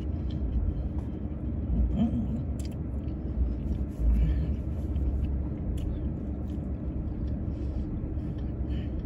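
Steady low rumble of a parked car's idling engine, heard inside the closed cabin, with small clicks and rustles of a napkin and eating. A short hum from the eater comes about two seconds in, and a soft thud about four seconds in.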